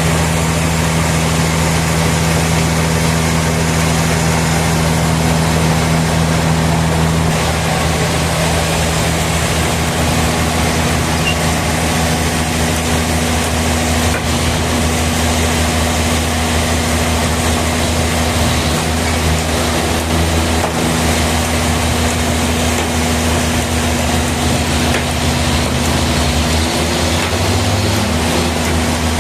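Sawmill machinery running with a steady engine drone. Its low hum shifts in pitch about seven seconds in and again near the end.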